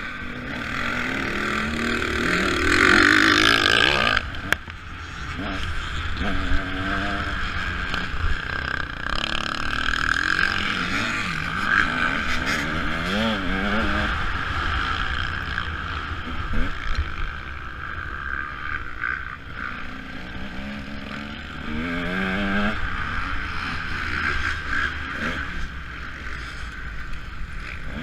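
Motocross bike engine revving up and down as it is ridden around a dirt track, its pitch rising and falling over and over.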